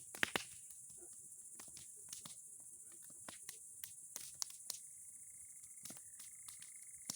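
Wood bonfire of old boards and pine cones crackling: irregular sharp pops and snaps, a few louder ones just after the start, over a steady high chirring of insects. About five seconds in, a steady thin high tone joins.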